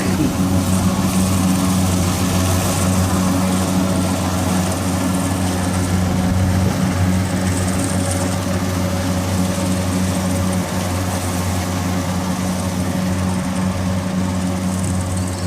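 Kubota DC60 combine harvester running steadily, a constant engine drone with the machine's mechanical noise over it.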